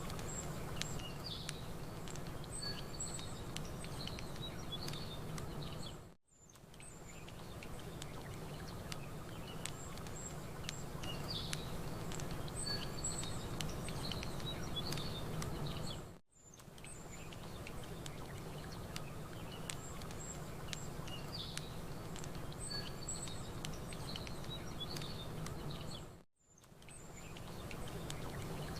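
Campfire crackling with scattered small pops over a steady low rush, with songbirds chirping. The same stretch repeats about every ten seconds, with a brief drop-out between repeats.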